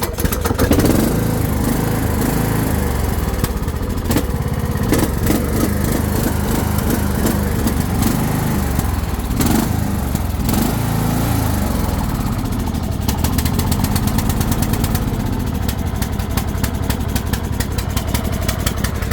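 Troy-Bilt riding mower's small engine running after a cold start on choke, its speed swelling and dipping a few times as it warms up.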